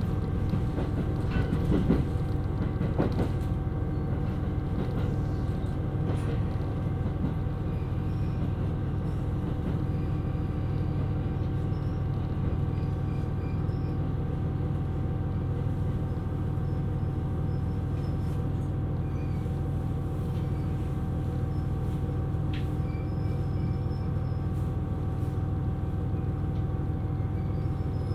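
KiHa 127 series diesel railcar running, with a steady low rumble and an even engine and transmission hum. A few knocks from the wheels sound in the first few seconds.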